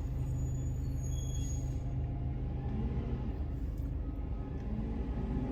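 Low, steady vehicle engine rumble heard from inside a parked car, with a steady hum through the first three seconds or so.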